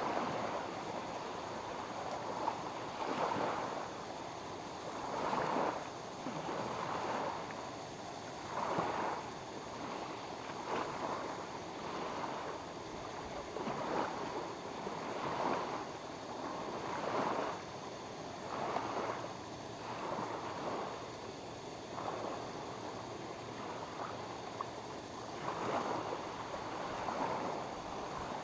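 Small lake waves lapping against the shore, a wash that swells and fades every second or two.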